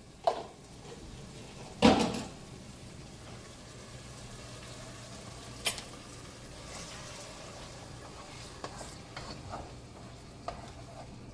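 Pot of meat and watery sauce on the stove, cooking with a faint steady sizzle, with a loud clank of a utensil against the pot about two seconds in and a lighter click later.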